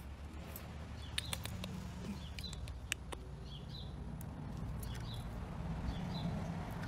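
Small bird chirping repeatedly in short high chirps over a low steady hum, with a few sharp clicks about a second in and again near three seconds.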